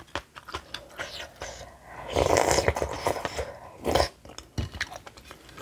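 Close-miked chewing of bibimbap with crunchy aged-cucumber salad: many small wet mouth clicks and crunches. A louder wet noise comes about two seconds in and lasts about a second, and another short loud crunch comes near four seconds.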